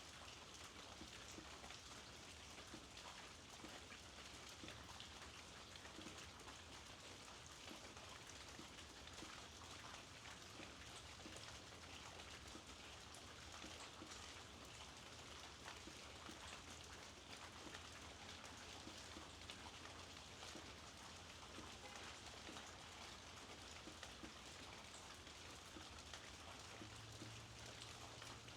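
Faint, steady rainfall, a dense haze of small drops with fine individual ticks scattered through it.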